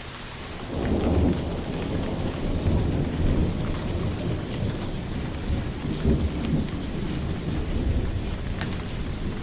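Steady rain hissing, with a low rumble of thunder breaking in about a second in and rolling on in swells.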